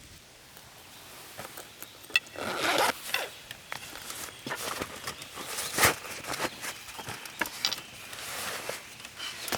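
Close handling noises: a few short rasping swishes, the loudest near the middle, among scattered small clicks and knocks.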